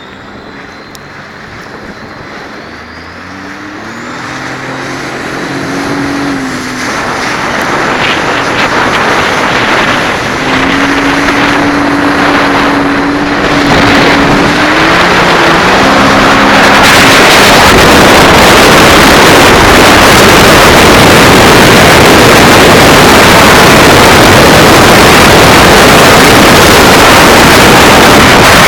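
Sea-Doo jet ski engine revving up as the craft pulls away and accelerates, its pitch stepping up and getting steadily louder. About two-thirds of the way in, a loud, steady rushing noise takes over: wind and spray hitting the microphone at speed.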